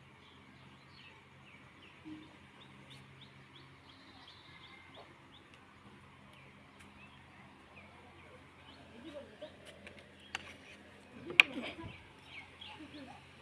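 Small birds chirping: many short, quick chirps over a faint steady low hum. Near the end there are voices and one sharp click.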